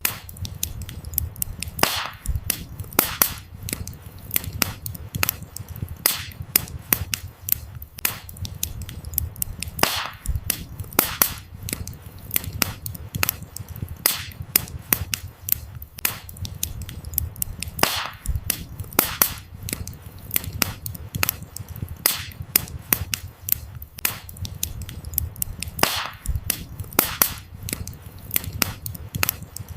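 Campfire of burning firewood crackling: dense sharp snaps and pops, several a second, with a few louder pops standing out, over a soft low rumble of the flames.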